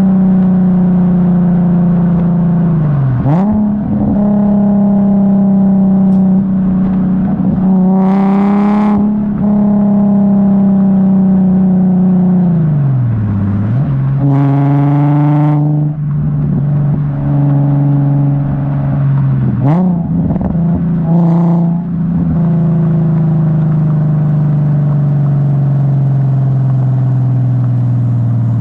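Infiniti G37S coupe's VQ37 V6 running through a custom single 3-inch catback exhaust while driving, mostly holding a steady note that slowly falls. Twice, about 8 and 14 seconds in, it gets louder and climbs in pitch under hard acceleration, and the note drops sharply several times as the throttle is lifted or a gear changes.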